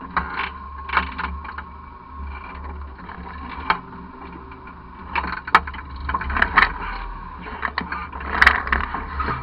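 Off-road truck's engine running low and steady, with repeated knocks, clunks and creaks from the truck as it works along; the loudest clatter comes about eight and a half seconds in.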